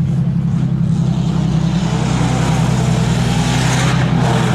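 Off-road competition truck's engine running hard and loud at steady revs.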